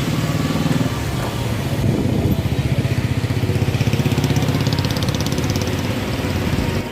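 A small motor vehicle's engine running close by, a fast even pulsing that swells toward the middle and then eases, over steady street traffic noise.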